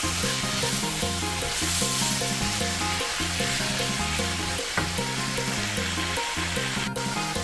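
Sliced bitter melon and ground pork sizzling as they are stir-fried in a nonstick wok, with a steady frying hiss, over background music with a walking bass line.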